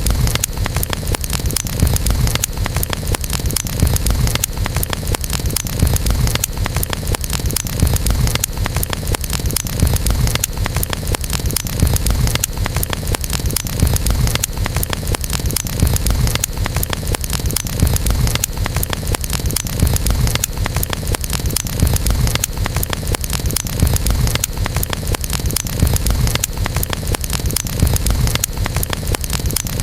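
Campfire burning: a dense run of small crackles and pops over a steady low rumble of the flames.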